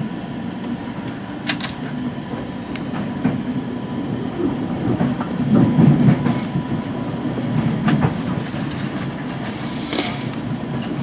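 West Coast Express commuter train rolling into its final stop, heard from inside the coach: a steady low rumble that swells about halfway through, with a few sharp clicks and knocks from the wheels and running gear.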